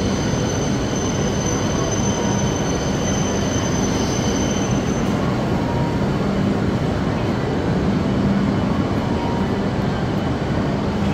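E5 series and E8 series Shinkansen train sets, coupled, pulling into the platform: a steady rumble from the cars and running gear, with a thin high whine that fades out about halfway through.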